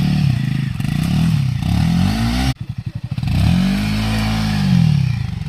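Single-cylinder motorcycle engine revved hard in repeated rises and falls, as if trying to drive the bike through or out of rough ground. About halfway through the revs drop briefly to a slow, low chugging before climbing again.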